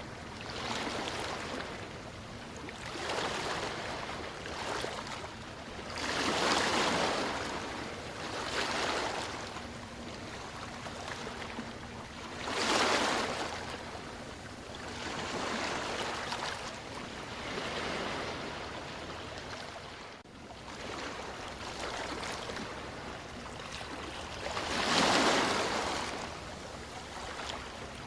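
Ocean waves washing in, a steady rushing hiss that swells into a louder surge every few seconds and ebbs away again.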